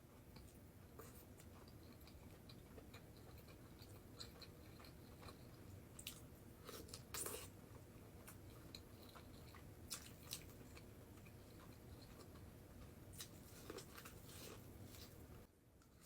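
Faint eating sounds of a person chewing: scattered soft clicks and short crunches, a small cluster about seven seconds in, over a low steady hum.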